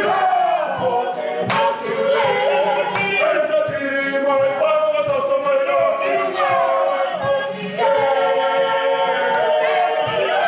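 A Maori group singing and chanting together in unison, unaccompanied, with sharp slaps or stamps now and then.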